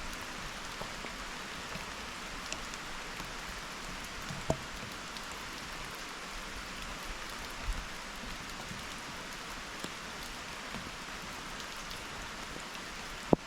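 Steady rain falling, an even hiss, with a few sharp clicks standing out, the loudest near the end.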